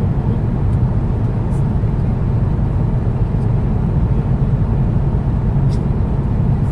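Steady low roar of cabin noise in a Boeing 777-200ER in cruise: airflow and engine noise heard from an economy seat. A few faint light ticks sound over it.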